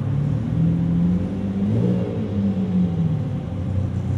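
Car engine running steadily, with a brief rise and fall in pitch about two seconds in.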